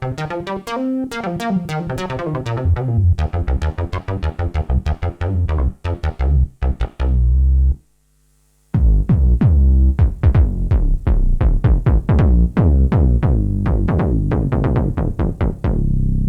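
IK Multimedia Uno Synth PRO analog synthesizer playing factory presets: a fast repeating pattern of notes over a low bass, which stops about eight seconds in. After a brief silence, another preset starts with rapid, short plucked notes.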